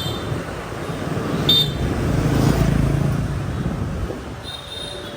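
Motorbike and street traffic noise on a ride through city streets: a steady low engine and road rumble, with short high horn beeps at the start, about a second and a half in, and again near the end.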